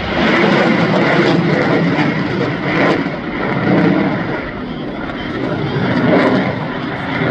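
Jet noise from an F/A-18F Super Hornet's twin engines in flight, a loud, steady rush that eases slightly midway and swells again.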